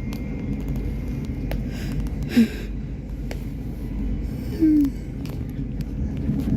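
Low, steady rumble of a train at a railway station, with scattered clicks. Two short, louder sounds with sliding pitch come about two and a half and four and a half seconds in.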